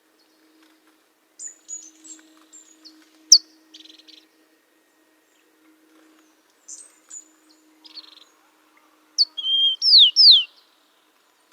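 Bird calling in short, high chirps and a few buzzy notes, then near the end a louder phrase of clear whistles sliding downward, with one held note.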